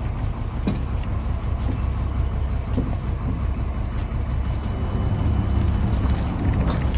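Fishing trawler's engine running steadily with a low, even drone, and a few faint knocks over it.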